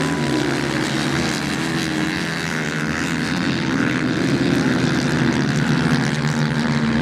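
Several motorcycle engines running at speed as racing bikes circulate on beach sand, their pitches wavering slightly as they move.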